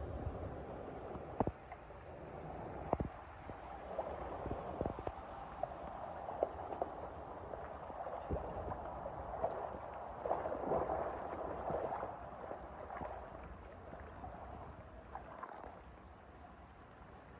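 Water gurgling and running into a drain, with scattered sharp knocks and splashes; it swells for a couple of seconds past the middle.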